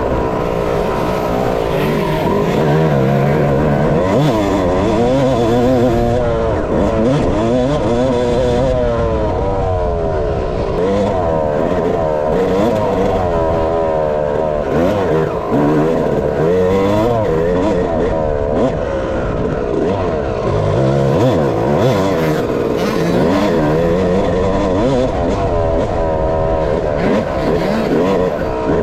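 Dirt bike engine revving hard and dropping back over and over, its pitch climbing and falling every second or two as the bike is ridden around a motocross track.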